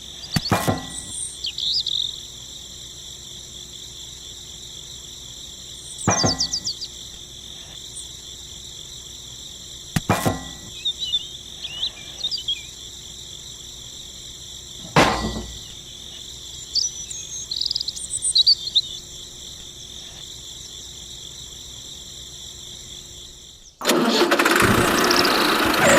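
Steady high insect drone, typical of crickets, with four sharp knocks a few seconds apart and scattered short chirps. About two seconds before the end, a loud rushing noise cuts in.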